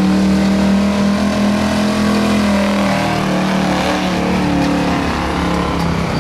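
1977 Ford F-250 truck engine running hard at high, fairly steady revs while pulling a weight-transfer sled, the pitch sagging slightly near the end as the load builds.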